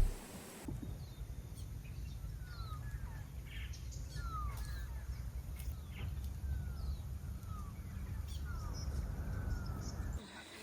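Birds calling: a run of short downward-sliding whistles, roughly one a second, over a steady low rumble.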